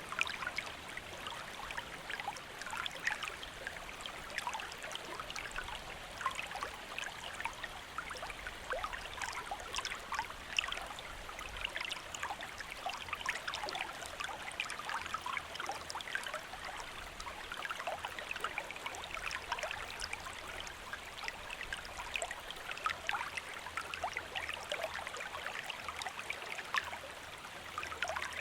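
A stream of water flowing steadily with a continuous babbling rush, speckled with many small splashes and gurgles.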